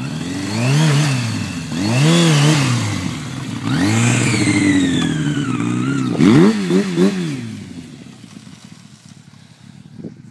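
Yamaha FZR1000 inline-four engine in a prototype quad being revved: three long swells up and back down, then a quick run of short blips about six seconds in, before it settles to a lower, quieter idle near the end.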